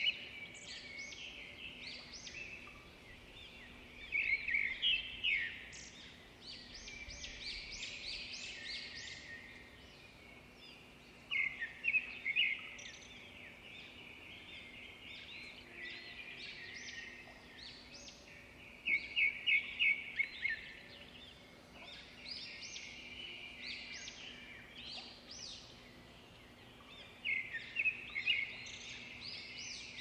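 Birdsong: bursts of rapid, high chirps recurring every seven or eight seconds, with softer twittering in between.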